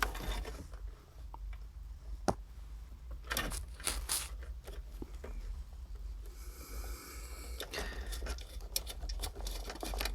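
Scattered clicks and knocks of a car stereo head unit and its plug-in cable connectors being handled, a few at a time, with a brief hiss about six seconds in and a steady low hum underneath.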